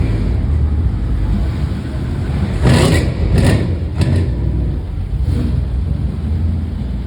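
Car engines running with a steady low rumble, with a few short, loud bursts of noise about three and four seconds in.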